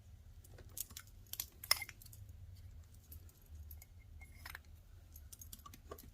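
Twine being wrapped around a paper card by hand: soft rustles of card stock and a few sharp little clicks and taps, the loudest just under two seconds in.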